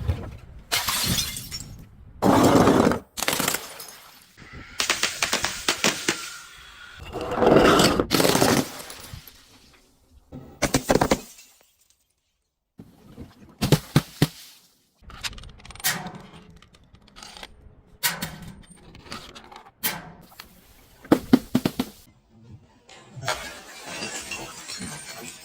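Glass bottles being smashed one after another, each a sudden shatter with ringing and tinkling shards, separated by short pauses.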